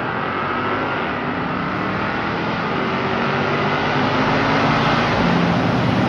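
A car engine running steadily, its sound growing gradually louder.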